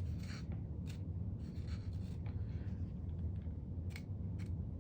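Light scratching and small plastic clicks from handling and working a wiring-harness connector, over a steady low hum.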